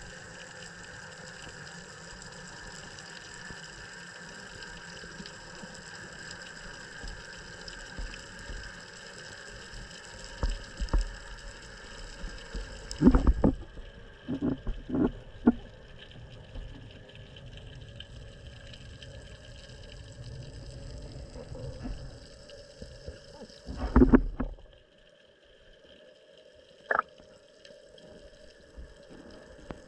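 Water gurgling and rushing with a steady hiss, as heard at sea. Sharp knocks break in about halfway through and again, loudest, a little after two-thirds of the way, after which it goes quieter.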